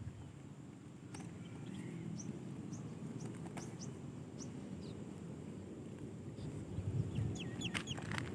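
Caged songbird giving short, high chirps, scattered at first and then a quick run of hooked notes near the end, with a few sharp clicks over a steady low background rumble.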